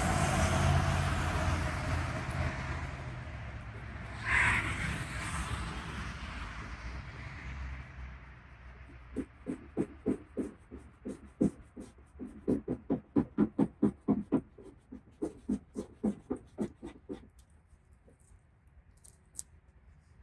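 A loud, steady rumble and hiss fades away over the first eight seconds, with a brief swell about four seconds in. Then a cloth is rubbed back and forth over the car's paint in quick strokes, about two to three a second, for some eight seconds, working at a scuff mark.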